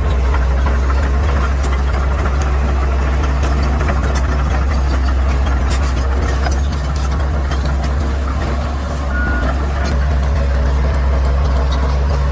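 Caterpillar D6R XL bulldozer's diesel engine running steadily with a deep drone, with scattered sharp metallic clanks around the middle. The engine sound drops briefly about seven to nine seconds in, then comes back up.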